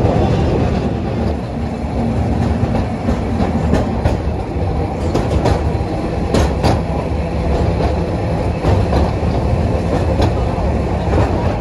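A train or tram running on rails: a loud, steady rumble, with a few sharp clicks of wheels over rail joints around the middle.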